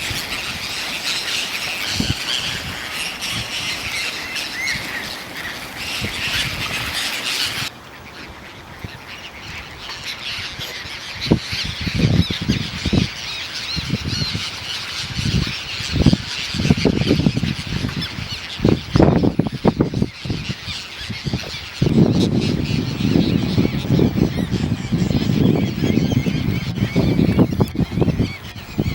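A flock of birds calling with squawks and honks. The sound changes abruptly about a third of the way in, and uneven low rumbling grows louder through the second half.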